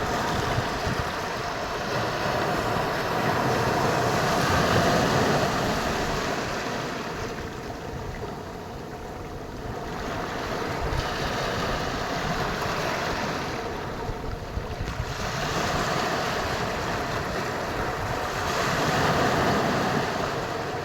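Ocean waves washing onto a shore: a rushing noise that swells and fades several times, every few seconds.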